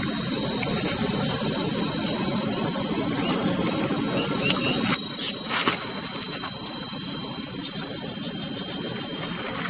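Insects droning steadily on one high pitch over a noisy background. About halfway through the background drops abruptly and a few sharp clicks follow.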